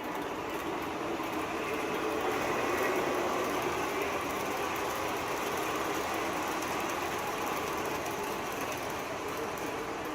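MTH O-scale R-40 subway car model running on three-rail track, with its sound system playing the noise of a moving subway train: a steady mix of wheel and motor noise that swells slightly two to three seconds in.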